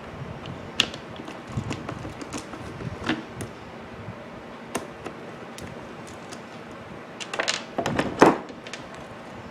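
Scattered clicks and light knocks from handling a small angle grinder's housing with a screwdriver while its back cover is taken off, with a louder cluster of knocks about three quarters of the way through.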